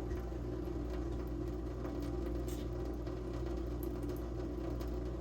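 Scattered faint clicks and taps of kitchen faucet parts being handled and twisted by hand, over a steady low hum.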